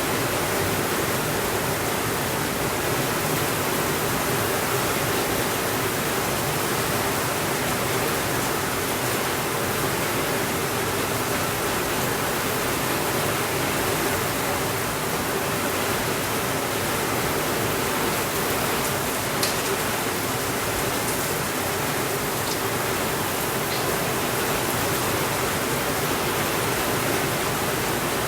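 Steady rainfall, an even hiss with no thunder, with a few faint clicks about two-thirds of the way through.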